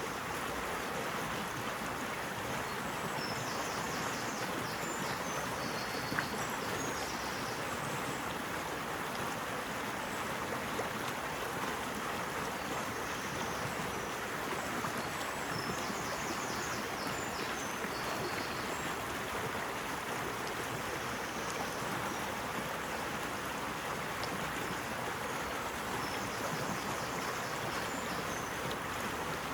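Steady rushing of a flowing stream, with faint high chirping in three short spells.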